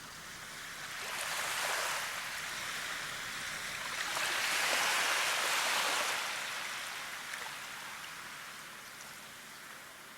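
Rushing water: a steady hiss that swells twice, about two seconds in and more strongly around five seconds, then slowly fades back.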